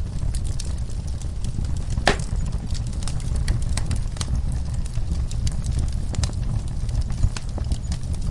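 Wood fire in a fireplace crackling, with frequent small pops and one louder pop about two seconds in, over a steady low rumble.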